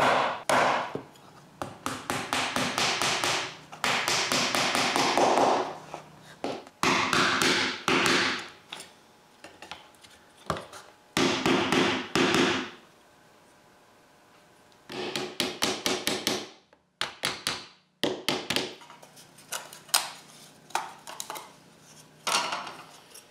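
Small wooden piggy-bank parts being fitted together by hand: runs of quick taps and clicks of wood on wood, with a few seconds' pause about halfway through.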